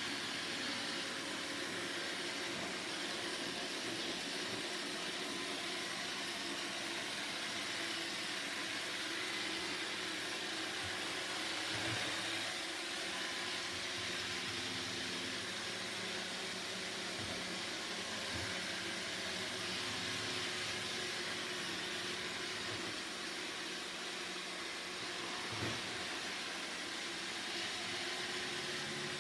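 Roomba robot vacuum running: a steady whirring hiss of its suction motor and brushes, with a couple of faint knocks.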